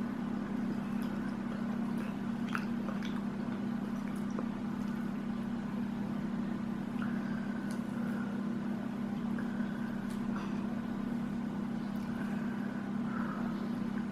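Quiet eating sounds: faint chewing, mouth clicks and squishes of food being eaten. Under them runs a steady low hum.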